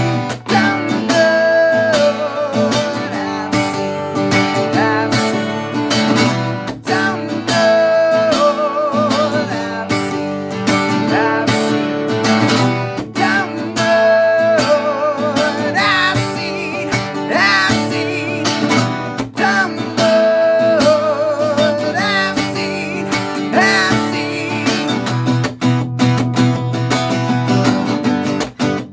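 Acoustic guitar music: strummed chords under a lead melody line that bends and wavers, playing continuously.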